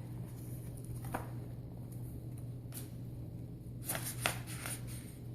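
Quiet room with a steady low hum and a few faint taps and rustles of handling, bunched together about four seconds in.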